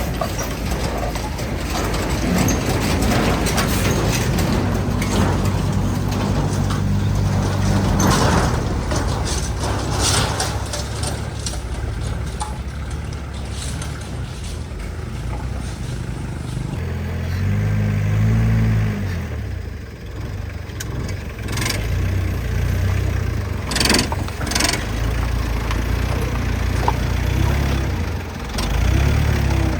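Truck engine running while driving, its pitch rising and falling, with a few sharp knocks about three quarters of the way through.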